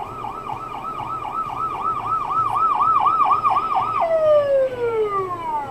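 Electronic siren yelping rapidly, its pitch sweeping up and down about four times a second, then winding down with a falling pitch about four seconds in.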